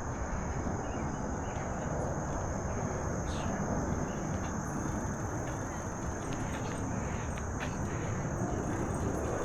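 Steady rumble of wind and tyre noise from a bicycle rolling along a trail, with a constant high-pitched drone of insects.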